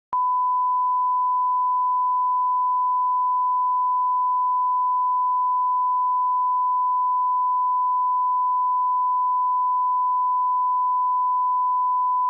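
Audio line-up test tone: a continuous pure 1 kHz sine tone at −18 dB, switched on abruptly and held perfectly steady in pitch and level.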